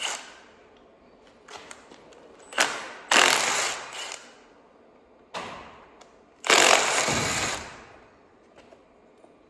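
Three bursts from a hand-held power tool, each starting sharply and dying away over about a second and a half, as it spins out the valve cover bolts on an LS V8.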